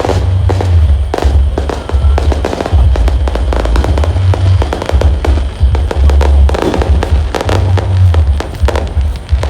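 Fireworks going off continuously: dense, irregular bangs and crackles, over a heavy low rumble.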